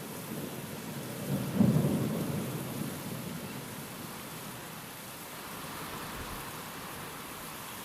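Steady rain with a roll of thunder about a second and a half in, sharpest at the start and dying away over a couple of seconds.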